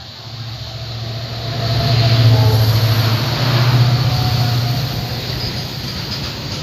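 Diesel locomotive hauling a freight train passing close by at speed: its engine drone swells to a peak as the locomotive goes past, then eases into the rumble of the wagons rolling by on the rails.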